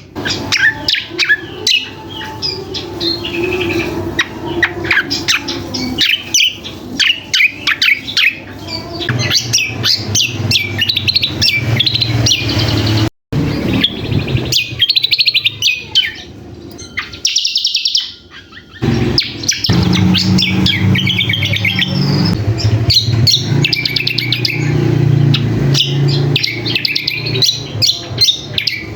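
A small songbird singing a fast, continuous run of chirps and trills, a song likened to a sikatan londo's. The song breaks off suddenly for a moment about halfway through, with a steady low hum beneath it.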